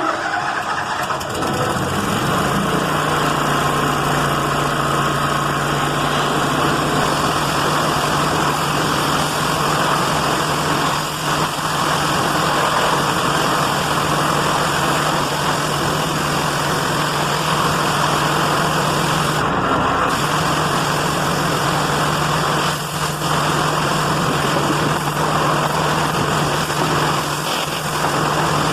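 Gasoline engine of a 3,625 psi trailer-mounted pressure washer running steadily, with the loud hiss of its water spray. The engine's pitch drops and settles about two seconds in.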